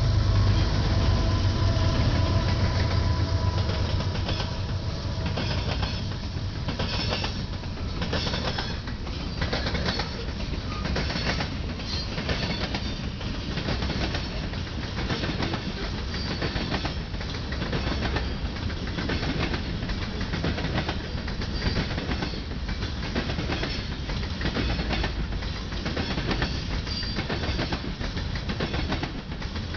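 A freight train passing close by. For the first few seconds the diesel locomotives' engines run loud and low as they go past. After that, covered hopper cars roll by with a steady clickety-clack of wheels over rail joints, roughly one beat a second.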